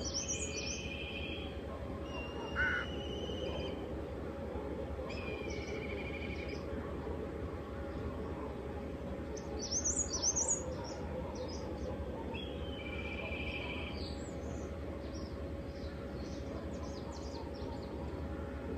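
Birds calling: clusters of high chirps and several short trilled notes about a second long, a few seconds apart, over a steady low background hum.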